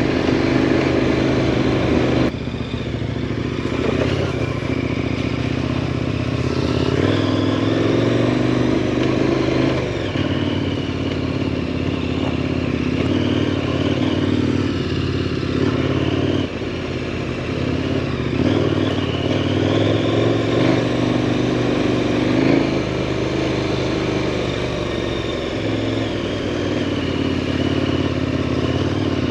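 2018 KTM 1090 Adventure R's 1,050 cc LC8 V-twin engine running under way. Its pitch steps up and down a few times.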